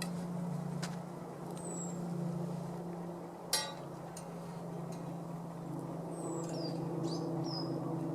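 A steady low engine-like hum, with a few brief high descending bird chirps and one sharp click about three and a half seconds in.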